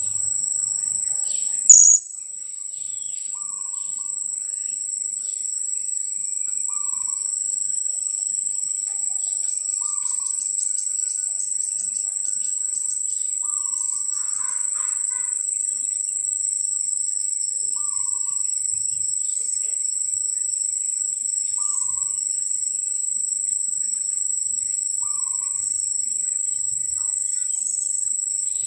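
Steady high-pitched insect drone, with a short call repeating about every three and a half seconds and a few faint higher bird chirps. A single sharp click about two seconds in is the loudest moment.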